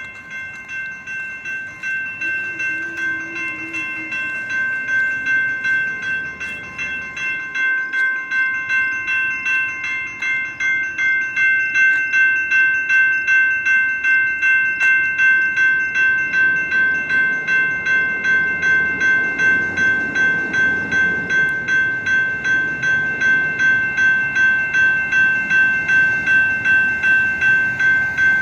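Railroad crossing bell ringing steadily at about two strokes a second, warning of an approaching train; it grows louder over the first dozen seconds, then holds.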